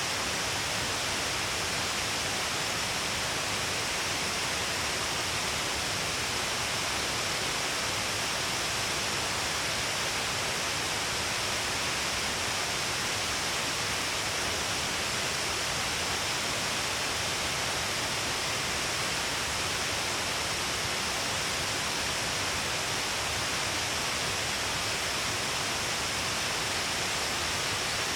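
Steady rush of water falling at Shiraito Falls, where many thin cascades spill down along a long cliff face. An even, unbroken wash of water noise with no speech or other events.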